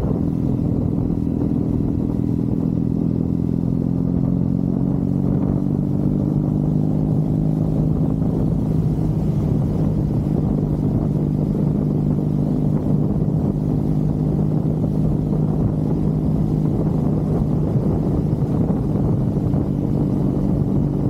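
Triumph Bonneville parallel-twin engine running at steady revs on the move, with a low wind rumble on the microphone. The engine note eases slightly lower over the first several seconds, then holds steady.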